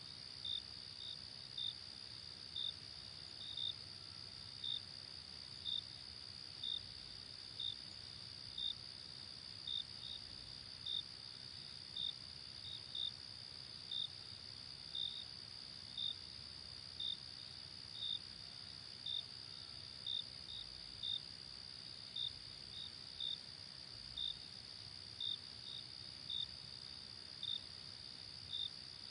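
Crickets at night: a steady high trill underneath, with short, louder chirps repeating about once a second, sometimes in quick pairs.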